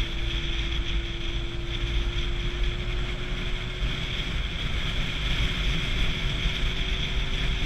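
Wind rushing over a rider's microphone while riding a motorcycle, with the engine running steadily under it and a low, even hum.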